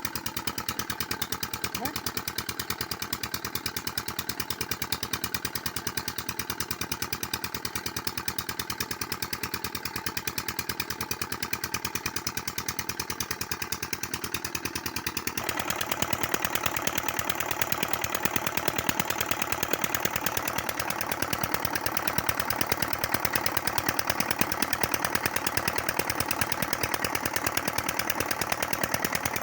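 Tube well diesel engine running steadily with a rapid, even chugging beat; it grows louder and fuller about halfway through.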